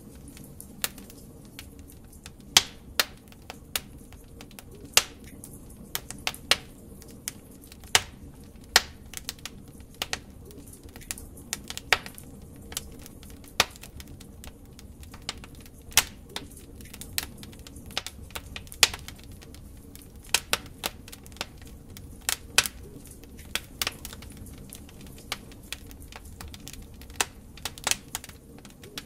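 Log fire in a fireplace crackling: irregular sharp pops and snaps, several a second at times, over a soft steady roar of the flames.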